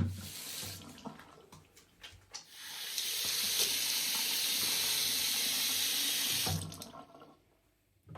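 A water tap running into a sink for about four seconds, then turned off. A sharp knock at the start, a few small clatters before the water comes on, and another knock near the end.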